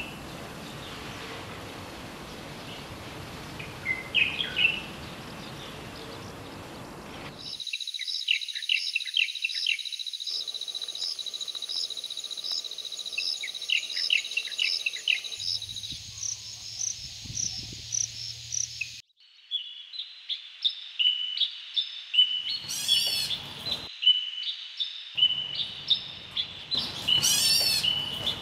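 Bulbul calls across three spliced clips. First come sparse short chirps, then calls over a steady high ringing tone, then a busy run of repeated notes with two loud rising calls near the end.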